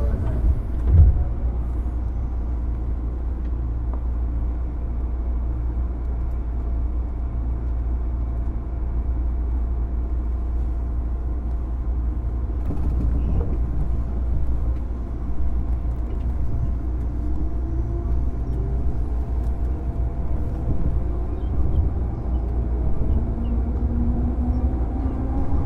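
JR 205 series electric train motor car running on the rails: a steady low rumble, with a single thump about a second in. Near the end the whine of its externally fanned MT61 traction motors rises steadily in pitch as the train gathers speed.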